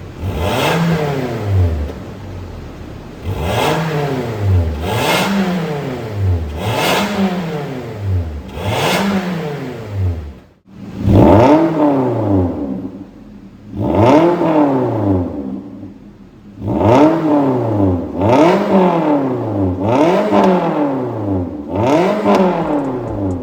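Toyota Corolla Altis E170's 2ZR-FE 1.8-litre four-cylinder engine free-revving through an MS-R valved cat-back exhaust: about a dozen quick throttle blips, each rising and falling in pitch, with a brief break about ten seconds in.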